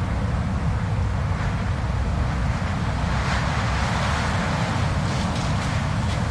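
Blizzard wind blowing hard and steadily, a deep low rumble with a hissing gust that swells in the second half.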